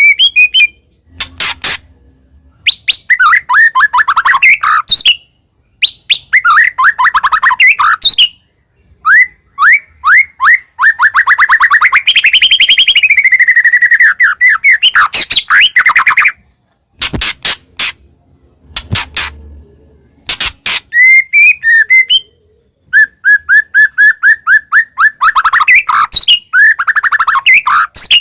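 White-rumped shama (murai batu) singing energetically: loud phrases of fast, repeated whistled notes and rattling trills, with a long unbroken run in the middle, broken by short pauses.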